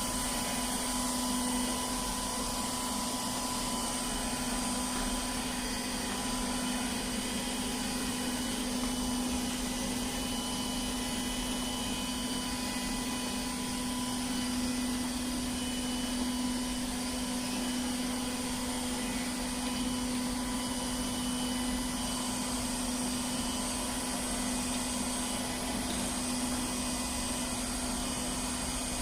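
Milagrow Seagull robot vacuum cleaner running steadily: a constant motor hum with a high whine over it.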